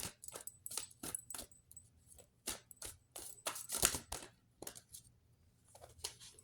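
Tarot cards being shuffled and handled by hand: a string of irregular crisp snaps and taps, the loudest about four seconds in.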